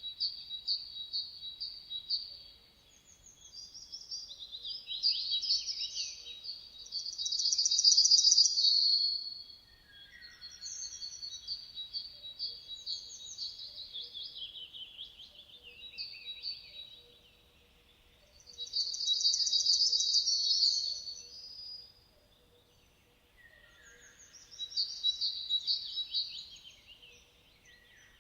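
Songbirds singing in a run of high, fast phrases of rapidly repeated notes and trills, with short pauses between phrases; the loudest phrases come about eight and twenty seconds in.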